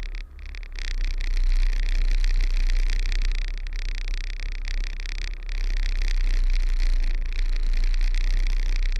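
Semi-truck diesel engine running with a steady low rumble while reversing, under a constant hiss; the sound dips briefly just after the start.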